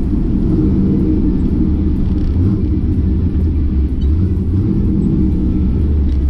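Drag car's engine running with a loud, steady low rumble.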